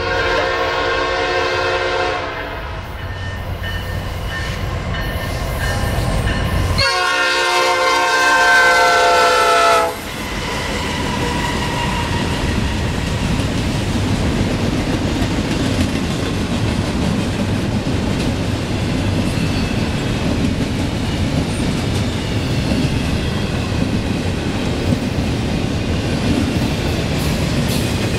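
Train horn sounding two blasts, a chord of several tones: one of about two seconds at the start, then a longer, louder one about seven seconds in, over a growing low rumble from the approaching locomotive. From about ten seconds in, the train's cars roll steadily past the crossing.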